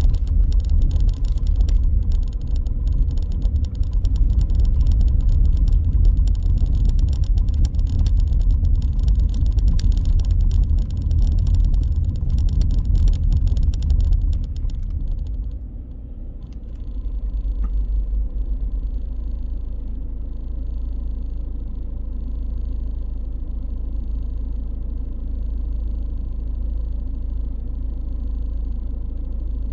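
A road vehicle driving, heard from on board: a heavy low rumble with dense rattling for about the first half. About halfway through the rattling stops suddenly and a smoother steady drone continues.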